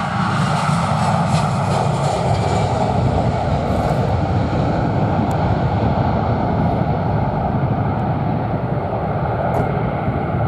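Jet airliner's engines giving a steady, loud rush, with a low rumble of wind on the microphone.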